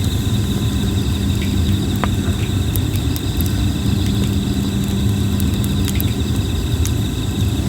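Plum-wood campfire crackling with scattered sharp pops, over steady insect chirring and a steady low rumble.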